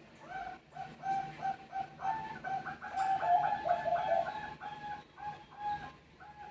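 Zebra doves (Bangkok perkutut) calling back and forth: a fast run of short, clipped cooing notes, about three to four a second, strongest in the middle and tailing off near the end.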